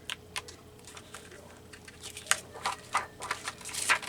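Paper and small craft pieces being handled on a table: a run of short clicks, taps and rustles, with a few sharper ones in the second half.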